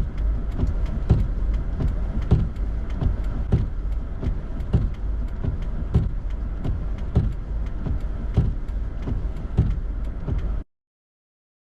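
A vehicle on the move: a steady low rumble with regular sharp knocks about two to three times a second. It cuts off suddenly near the end.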